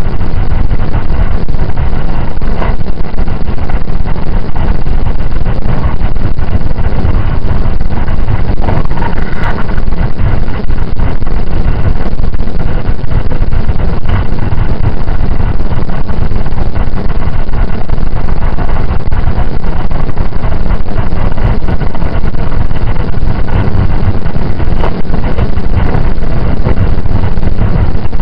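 Loud, steady running rumble inside the passenger car of a JR 681 series electric express train on the move, from the wheels on the rails and the running gear beneath the floor.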